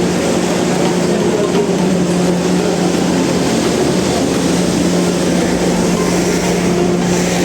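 Diesel train running close by on the platform track: a loud, steady engine hum over a rumbling noise, with the deepest rumble growing about five and a half seconds in.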